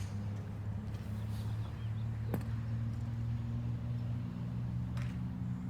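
Two sharp clicks of golf clubs striking balls, the first loud about two seconds in, the second fainter about two and a half seconds later, over a steady low hum.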